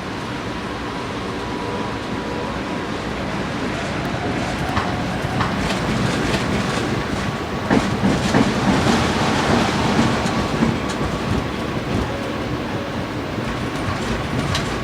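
Tram running on its rails: a steady rumble with scattered wheel-on-rail clicks and a faint thin squeal tone, swelling a little in the middle.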